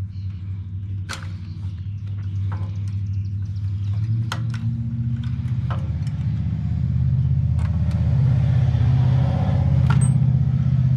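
Small gas engine of a Ryobi pressure washer running steadily, now that its carburetor has been sorted out; it grows louder about four seconds in. Scattered sharp clicks and knocks sound over it.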